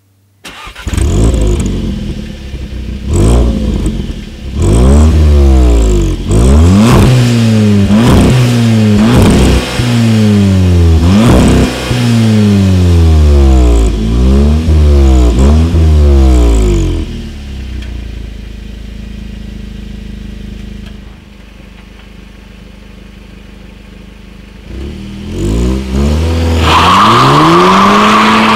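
2015 Volkswagen Polo GTI's 1.8-litre turbocharged four-cylinder heard at the twin exhaust tips: about fifteen quick rev blips, roughly one a second, each rising and falling. The engine then settles to idle. About 25 seconds in the car pulls away hard, its engine pitch climbing as it accelerates.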